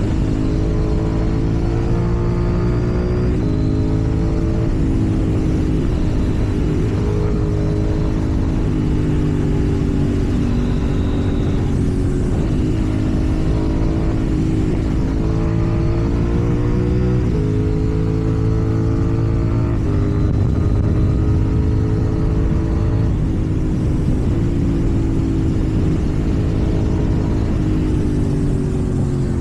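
KTM 790 Duke's parallel-twin engine running under the rider, its pitch climbing and then dropping back again and again as the throttle is opened and closed, with a steady low rumble of wind and road underneath.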